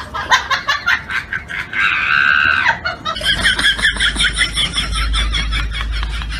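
Rapid, repeated animal calls, several a second, with one longer call just after two seconds in; from about three seconds the calls come thicker over a low rumble.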